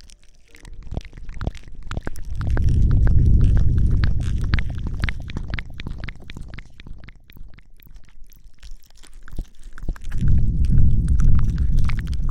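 Close-miked ASMR rustling and rubbing on the microphone, in the manner of hair washing: steady fine crackling, and twice a loud low rumble as the mic is rubbed, near the start and again near the end.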